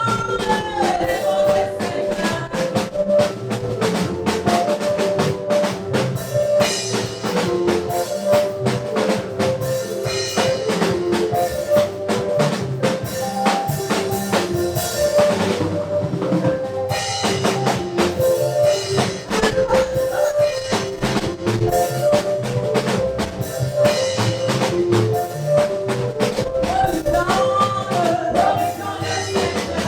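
Live gospel praise band playing an instrumental passage: a drum kit beats a steady groove with bass drum and snare under a melody, with a brief break in the drumming about halfway through.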